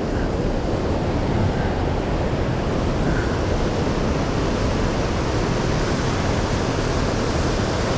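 Steady rush of fast-flowing river water, an even noise with no break.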